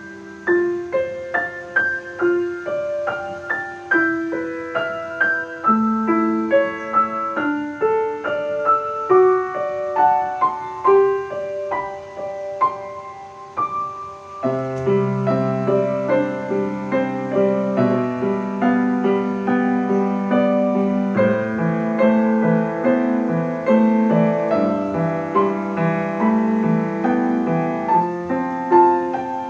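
Solo piano playing a melody in single notes over light accompaniment. About halfway through, deeper bass notes come in and the playing grows fuller and louder.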